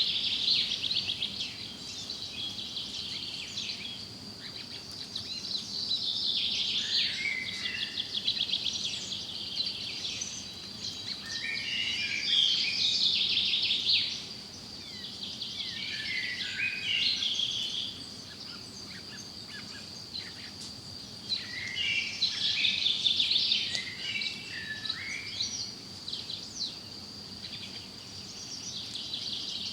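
Forest birds singing, with bouts of varied chirping song phrases every few seconds over a steady high-pitched hum.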